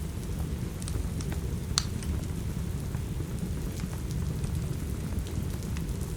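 Steady heavy rain with a deep, even rumble underneath, and scattered sharp crackles and pops from a wood fire in a fireplace; the loudest pop comes a little under two seconds in.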